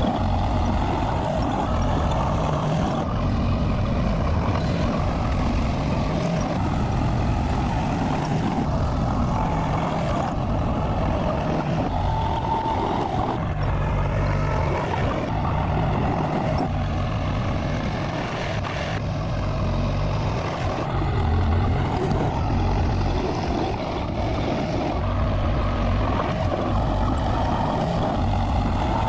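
A bulldozer's diesel engine running steadily under load, with a rumble that rises and falls a little.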